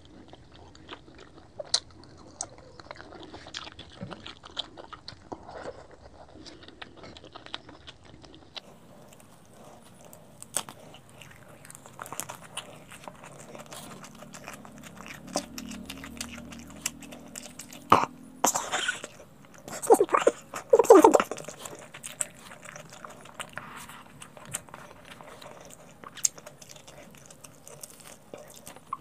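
Close-miked chewing and crunching of crispy fried pork belly (lechon kawali), with many small crunches and a cluster of loud crunching bites about two-thirds of the way through.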